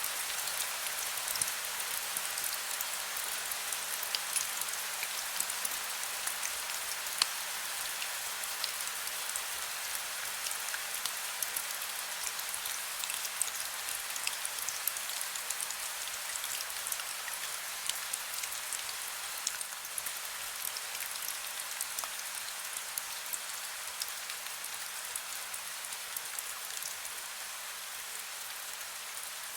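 Heavy rain falling: a dense, steady hiss full of sharp drop impacts.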